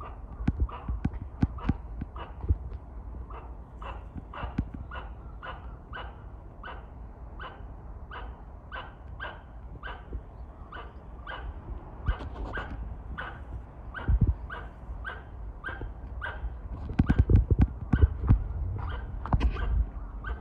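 Squirrel giving its alarm call, short sharp barks repeated evenly about twice a second, directed at birds. A few loud low thumps break in near the end.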